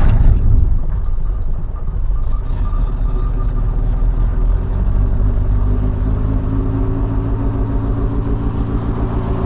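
Zastava 101's petrol engine just started from cold on a brand-new single-barrel Weber-type carburettor. It runs louder for the first couple of seconds, then settles into a steady idle, showing the freshly primed carburettor working.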